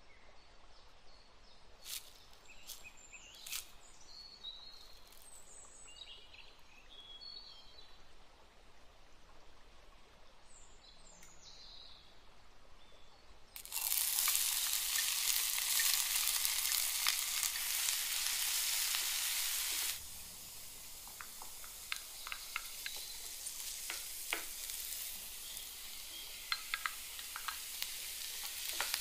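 A few faint clicks over a quiet background. About fourteen seconds in, loud sizzling starts suddenly as chopped onion is scraped with a wooden spoon into a hot non-stick frying pan. After about six seconds it drops to a softer, steady sizzle with light taps of the wooden spoon as onion, red pepper and mushrooms are stirred in the pan.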